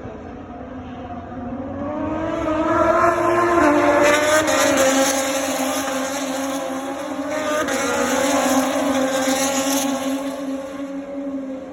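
Racing motorcycles going by at high revs: the engine note climbs in pitch and grows louder over the first few seconds, swells again about two-thirds of the way through, then fades.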